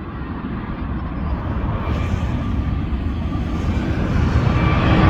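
Jet engines of a Malaysia Airlines airliner at take-off power: a deep rumble with a faint steady whine, growing louder throughout as the aircraft comes closer.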